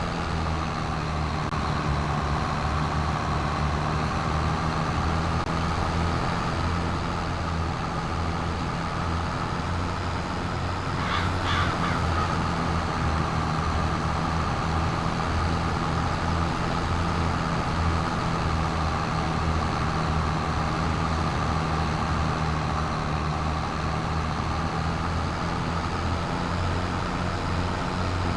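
Tractor engine running steadily at an even speed. About eleven seconds in, a short call rises briefly over it.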